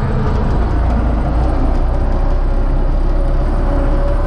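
UTB Universal 650 tractor's four-cylinder diesel engine running steadily, a constant low rumble with a faint steady tone above it.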